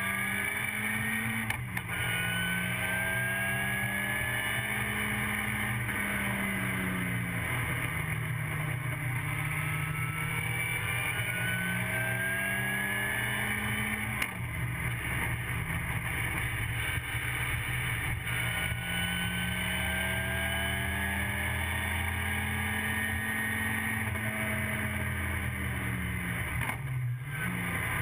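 Ford Kent Crossflow four-cylinder engine of a TVR Vixen race car at full throttle, heard from inside the cabin. The engine note climbs steadily through the revs, with brief breaks and falls at gear changes and lifts several times, about a second and a half in, about fourteen seconds in and near the end.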